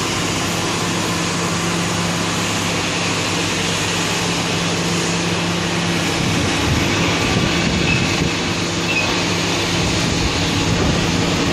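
Steady, loud mechanical drone with a constant low hum under a broad rush of noise, swelling slightly about halfway through.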